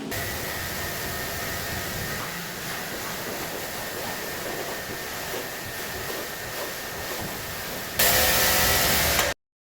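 Car-wash equipment hissing steadily. It gets louder for the last second or so, then cuts off suddenly.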